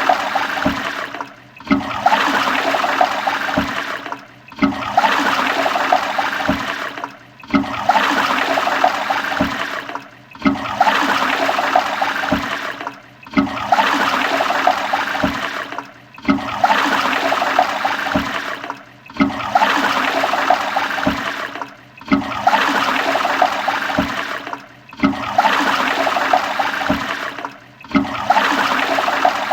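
Toilet flushing, a rushing gush of water that repeats about every three seconds with a brief silent gap between each, about ten times in a row.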